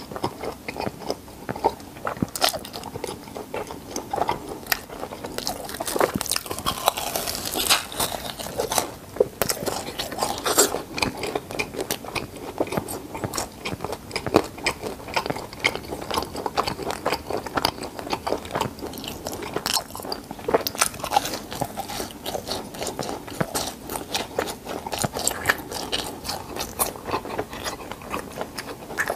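Close-miked chewing of crispy fried cheese balls: crackling crunches as the crust is bitten and chewed, with irregular sharp clicks throughout.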